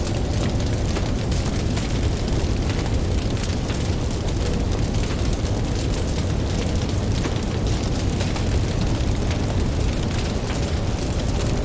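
Campfire crackling, with many small pops over a steady deep rumble.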